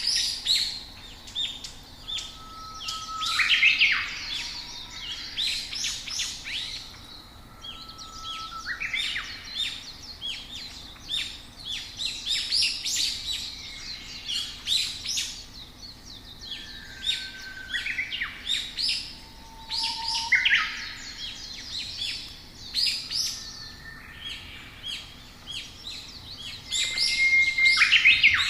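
Several songbirds chirping and singing together: a busy, overlapping run of short chirps, trills and brief whistled notes over a faint background of outdoor ambience.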